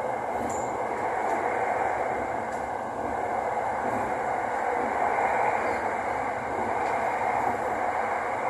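Interior running noise of an SRT Light Red Line electric commuter train car travelling at speed: a steady rush of wheels on rail and passing air, with no big changes.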